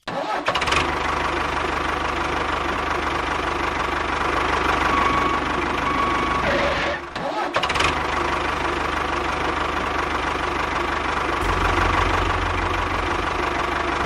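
A small motor running steadily with a low, rhythmic chugging, briefly dropping out about seven seconds in.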